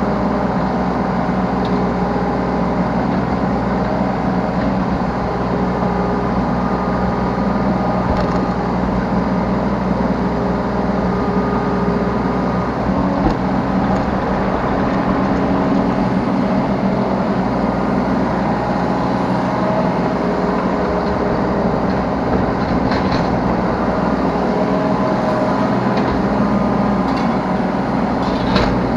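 Yanmar B3Σ 3-ton mini excavator's diesel engine running steadily while it digs and loads, heard from the operator's seat, with a couple of short knocks, one about halfway and one near the end.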